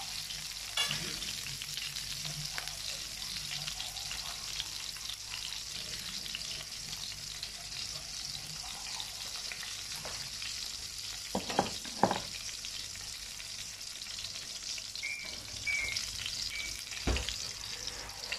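Garlic and sliced green chili sizzling in hot oil in a nonstick wok, a steady hiss. Two sharp knocks come a little past the middle, and another near the end.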